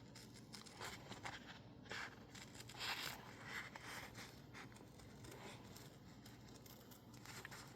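Faint sound of a sticker sheet of label paper being cut out: a series of short crisp papery cuts and rustles, the loudest about three seconds in, easing off in the second half.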